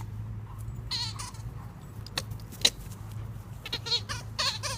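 Rubber squeaky chicken toy being squeezed, giving short, wavering, bleat-like squeaks: one about a second in and a run of several near the end, with a couple of sharp clicks between them.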